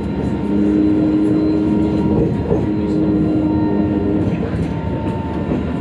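Sydney light rail tram heard from inside the cabin while running: a steady rumble, with a held electric hum from about half a second in until roughly four seconds in.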